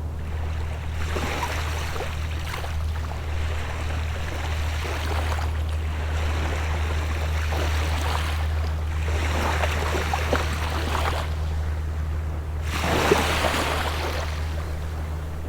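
Small sea waves breaking and washing up a sandy shore, a fresh wash every three to four seconds with a fizzing, crackling hiss as the water spreads and runs back. The largest wash comes near the end, over a steady low rumble.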